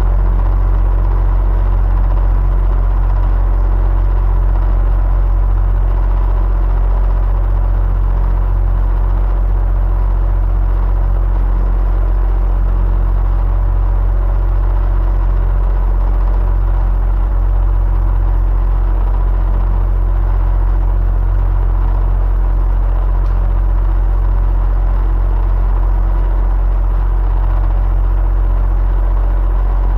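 Electric fan running steadily: a deep low hum with an even whir over it, not changing at all.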